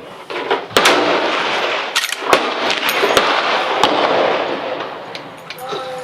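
Gunfire on a firing line: about a dozen shots in quick, uneven succession from several guns, each ringing out with a long echo that overlaps the next.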